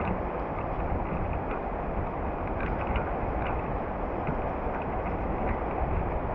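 Heavy rain falling steadily with wind, as a dense hiss with a low rumble and scattered small ticks of individual drops.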